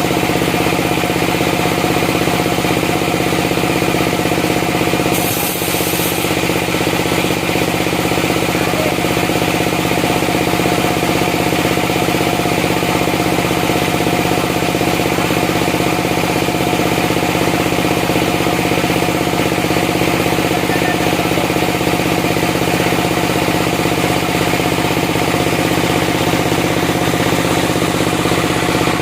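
Sawmill machinery running steadily: an engine drone at constant speed, with a dense stack of steady tones and a fast rattling quality.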